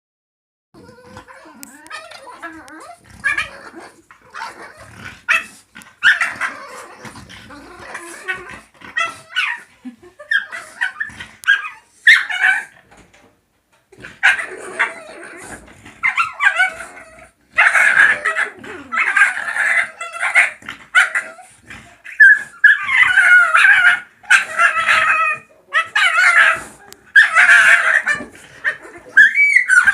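French bulldogs squealing, yipping and whimpering as they play, in irregular high-pitched bursts that come thicker and louder in the second half.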